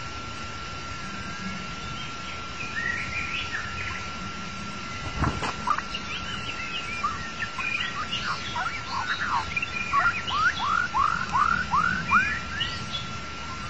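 White-rumped shama singing a string of varied whistled notes that grows busier, ending in a run of five quick falling whistles. A steady thin high tone sounds underneath, with a brief thump about five seconds in.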